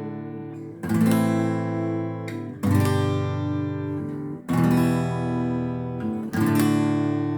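Acoustic guitar strumming chords in a slow instrumental break: four strong strums about two seconds apart, each left to ring out and fade.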